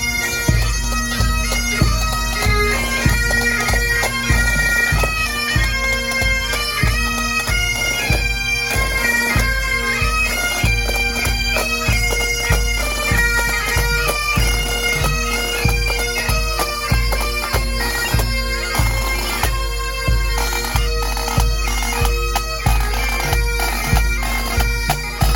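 Bagpipes playing a march tune over steady drones, with a regular drum beat underneath: a pipe band.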